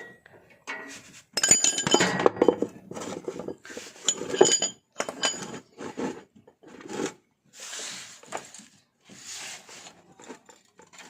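Metal hand tools clinking and clanking, a dense run of ringing metallic clinks in the first half, as a 17 mm wrench is set to the oil drain plug. Then fewer knocks and two softer scraping noises.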